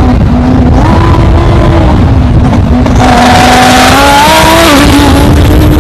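Twin-turbo Lamborghini engine running hard, very loud, its pitch rising and falling several times as the revs change.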